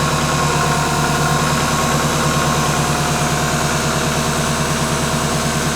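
Kubota M5660SU four-cylinder diesel idling steadily just after a cold start, with a fast even firing pulse. A faint steady hydraulic whine rides over the engine.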